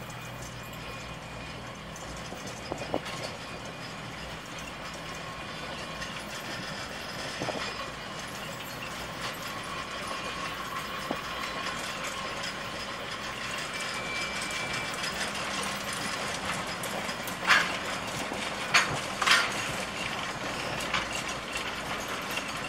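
Narrow-gauge train behind a small electric locomotive rolling past on the rails, its running noise growing steadily louder as it comes closer, with a faint wheel squeal partway through. Three sharp metallic clanks come in quick succession near the end.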